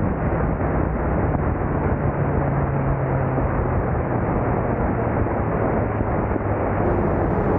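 Mitsubishi Lancer Evolution IX's turbocharged inline-four running at steady revs while driving, under loud, heavy wind and road rumble. The engine note drops a little about five seconds in.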